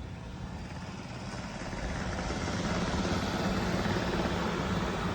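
Roborock Q5 Pro robot vacuum running on turbo suction: a steady motor whir with a low hum, getting louder about two seconds in.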